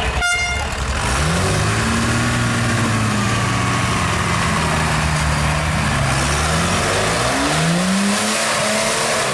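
Off-road race truck's engine revving up and down, its pitch rising, holding, then dropping and climbing again several times under throttle. A brief sharp click sounds just after the start.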